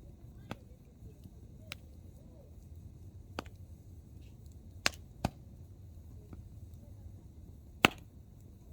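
Hardwood campfire crackling: burning firewood pops sharply six times, irregularly spaced, with the loudest pop near the end. Under the pops runs a low steady rumble.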